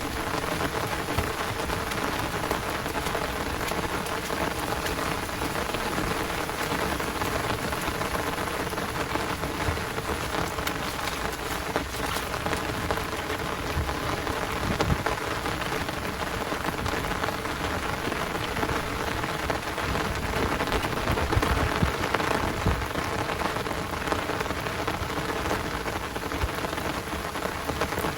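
Heavy rain falling steadily in a downpour, a dense, even patter of drops with no letup.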